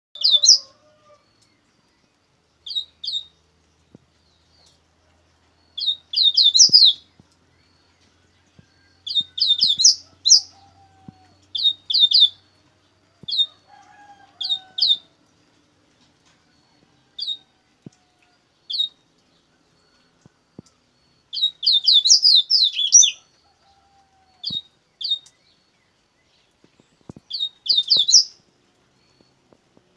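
Double-collared seedeater (coleiro) singing in short bursts of quick, high, chirping notes, each phrase a second or so long, repeated every few seconds with pauses between; the longest run comes about three-quarters of the way through.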